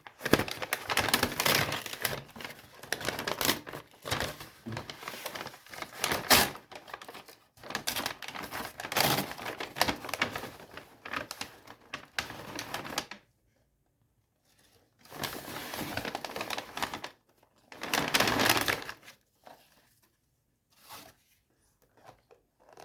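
Takeaway burger packaging being unwrapped by hand: paper crinkling and tearing with irregular crackles and clicks. It stops abruptly about halfway through and then comes back in a few short bursts.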